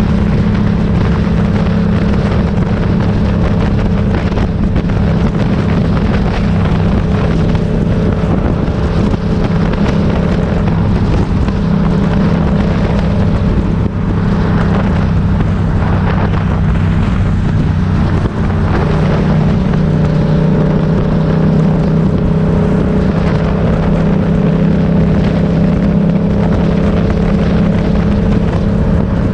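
Motorcycle engine running steadily under way, with two brief dips in level about 14 and 18 seconds in.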